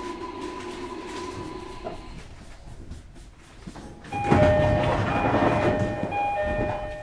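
Running noise inside a JR Kyushu 305 series electric train, with a steady tone in the first two seconds. About four seconds in, the noise swells and a level-crossing alarm rings loudly in two alternating tones as the train passes the crossing.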